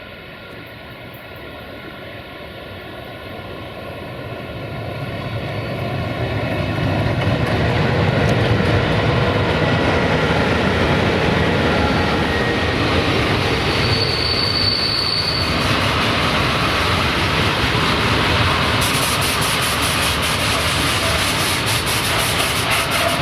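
A train approaching and passing close by. The rumble grows over the first several seconds into steady, loud wheel-on-rail noise. A brief high wheel squeal comes about halfway through, and a rapid run of clicks follows near the end.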